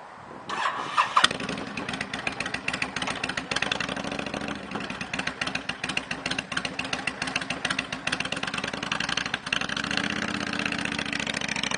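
2005 Honda VTX1300C's liquid-cooled V-twin with a straight exhaust, cranked on the starter and catching about a second in, then idling with an uneven, pulsing beat.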